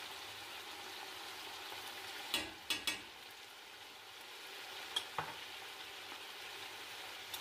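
Chicken, carrots and whole spices frying in oil in a stainless steel pot, a steady sizzle. A few light clicks come about two and a half seconds in and again near five seconds.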